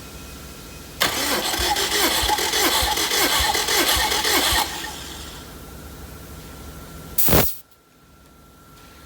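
Subaru EJ253 2.5-litre flat-four being cranked over by its starter motor for about three and a half seconds without firing, the cranking pulsing with each compression stroke as the compression gauge reads. About seven seconds in there is a short, loud burst of noise.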